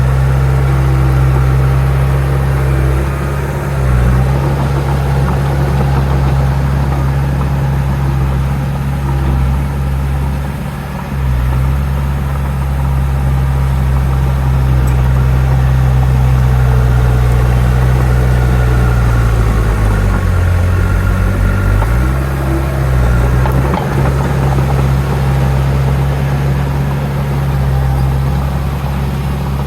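Heavy diesel engine of earthmoving machinery running steadily. Its pitch dips briefly under load about four seconds in and again near eleven seconds, then drops for a couple of seconds about two-thirds of the way through before recovering.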